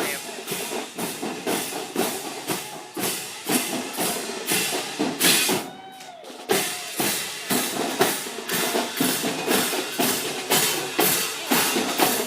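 Marching drumline playing a cadence: snare and bass drums in a steady, even beat, with a brief break about six seconds in.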